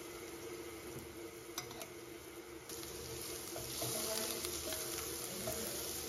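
Garlic, cashews and turmeric sizzling in hot oil in a stainless steel pan. A wooden spoon stirs and scrapes through them from about three seconds in, and the sizzle gets louder.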